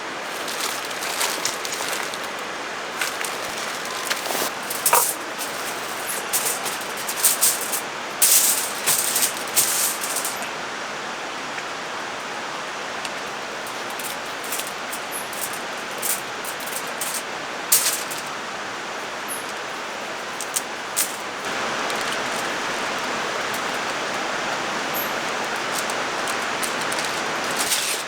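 Steady rushing of a valley stream, with scattered sharp crackles and clicks over it. The rushing gets a little louder about three quarters of the way through.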